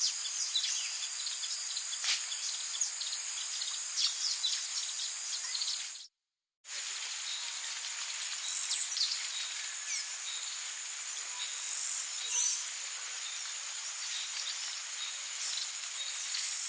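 Tropical rainforest ambience: a steady, high-pitched chorus of insects with scattered bird chirps and calls. The sound cuts out completely for about half a second around six seconds in, then resumes.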